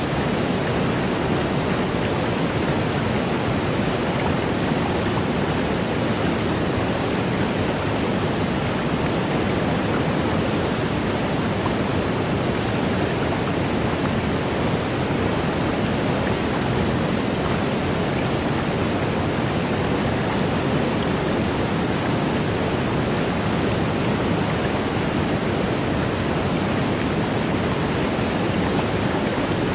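Waterfall: a steady, even rush of falling water, fullest in its low-to-middle range.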